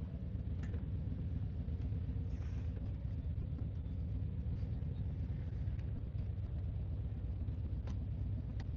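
Motorcycle engine running at idle: a steady low rumble with a faint steady hum, and a few light clicks.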